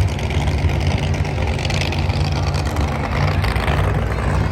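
Monster truck engine running steadily, a loud, deep rumble.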